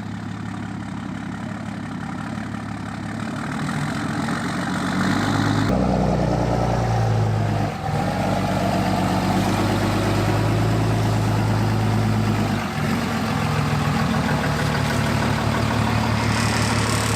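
Pickup truck engine idling steadily. About six seconds in its exhaust note grows louder and deeper, and it dips briefly twice later on.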